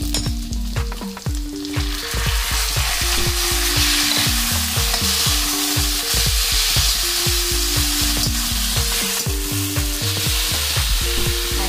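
Boiled, chopped spinach sizzling in hot oil in an iron kadai with fried paneer cubes. The sizzle swells up about two seconds in. Before that a perforated metal spoon clicks and scrapes against the pan, and it goes on stirring. A background tune plays underneath.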